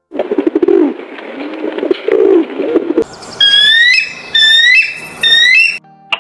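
Rock pigeons cooing in low, throaty pulses for about three seconds, followed by a bird giving a run of about five short, high whistled calls.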